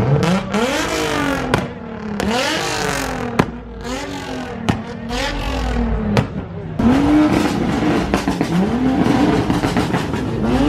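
Car engines revving hard over and over, the pitch sweeping up and dropping back in repeated blips, with about five sharp exhaust pops and bangs in the first six seconds.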